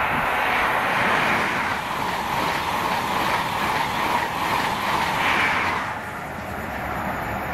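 Express passenger train passing at speed: a loud, steady rush of wheels on rail and air, which drops off suddenly about six seconds in as the last coach clears.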